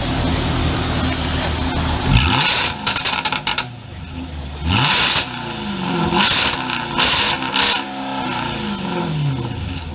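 Jaguar F-Type engine and exhaust running steadily, then revved in several sharp throttle blips. The exhaust crackles and pops as the revs drop, and a long fall in revs comes near the end.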